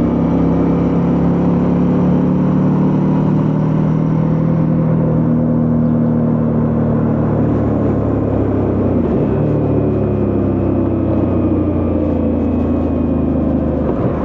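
Suzuki V-Strom 650's 645 cc V-twin engine running steadily under way. The engine note dips briefly about nine seconds in and again near the end, then picks up again.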